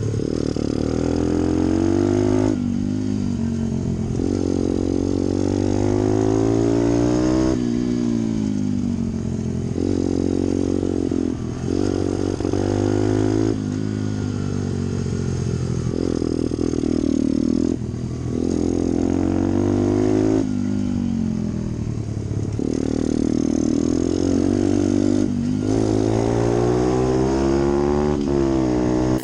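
Pit bike's single-cylinder engine running hard, its revs climbing and then falling off again every two to three seconds as it is ridden around a track.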